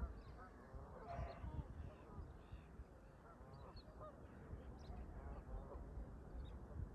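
A flock of Canada geese honking faintly and repeatedly. Small birds chirp high above them, over a low rumble of wind.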